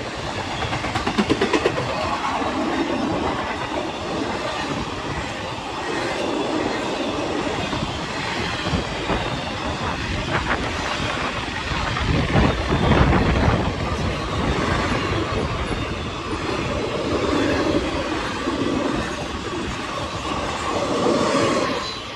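A train rolling past with a continuous rumble of rail cars. A quick run of wheel clicks comes about a second in, and it grows louder around the middle.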